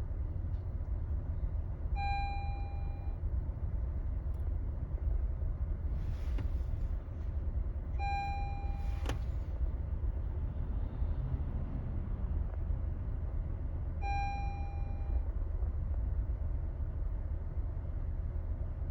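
Steady low rumble of a 2018 Honda CR-V's engine running, with an electronic warning chime sounding three times, about six seconds apart. The engine has a fault that set off check-engine codes and was traced to failing fuel injectors.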